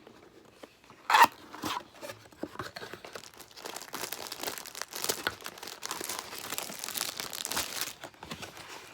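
Packaging being unwrapped by hand: crinkling and tearing, with a sharp loud rip about a second in, then steady crinkling.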